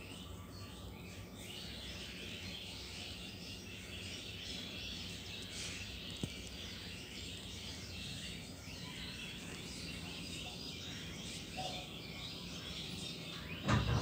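A chorus of many birds chirping and twittering without pause, over a low steady background rumble. A single loud thump sounds near the end.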